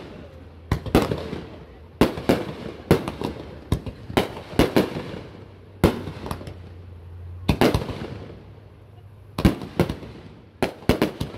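Aerial fireworks shells bursting overhead: a string of sharp bangs at irregular intervals, each trailing off in an echoing rumble, with a quick run of bangs near the end.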